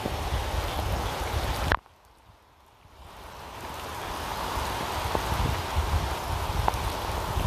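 Steady rain with a low rumble underneath; about two seconds in it cuts off abruptly, marked by a click, then the rain fades back in gradually over the next few seconds.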